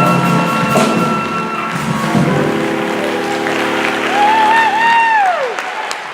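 A live jazz band ends a tune on a long held chord, the lead line wavering and then sliding down in a fall-off near the end, as audience applause rises underneath.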